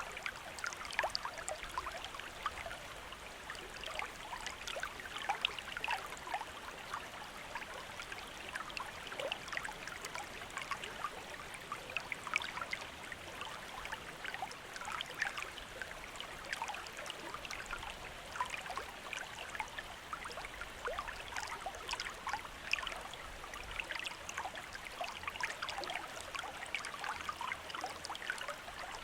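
Running water of a small river or stream, a steady rush with many small splashes and trickles over it.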